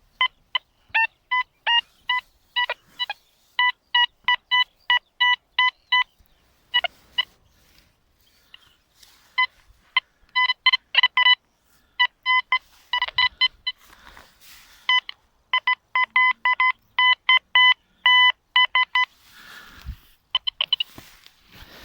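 Deteknix Quest Q40 metal detector giving short beeps of the same pitch in quick irregular runs of several a second, with a short break about eight seconds in, as its coil picks up metal signals. Near the end there is a rustle and a dull thump.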